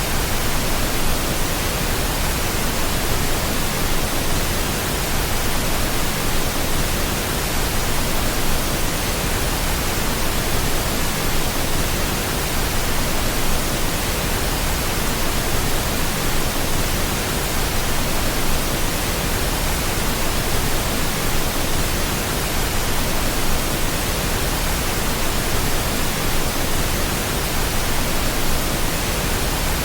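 Steady pink noise: an even, unchanging hiss spread across all pitches, generated as a sleep sound.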